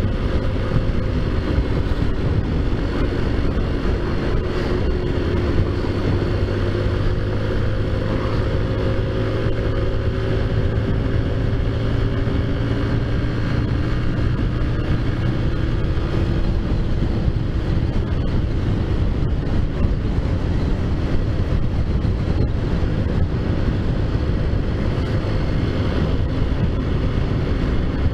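Taotao Zummer 50cc four-stroke scooter engine running steadily while riding, its note drifting slightly up and down in pitch, with wind rumbling on the microphone.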